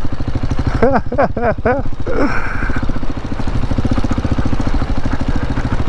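KTM 690 Enduro's single-cylinder engine running at low, steady revs, with an even rapid pulse.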